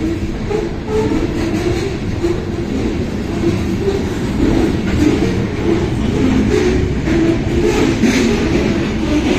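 Freight train's boxcars and covered hopper cars rolling past close by: a steady loud rumble of steel wheels on the rails, with short wavering squeaky tones coming and going and sharp clanks that grow more frequent in the second half.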